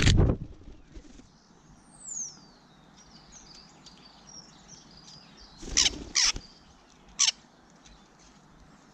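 Small garden birds chirping and twittering, with a descending whistle about two seconds in. Three loud, short, harsh sounds come close together near the end.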